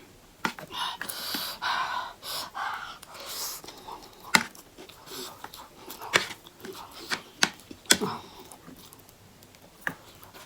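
A person eating close to the microphone: breathy sucking and slurping for the first few seconds, then several sharp mouth smacks or clicks, the loudest about four seconds in.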